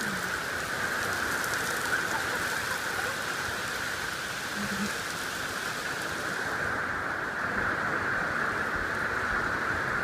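Steady rain falling and pattering on surfaces, its hiss thinning in the high end about two-thirds of the way through.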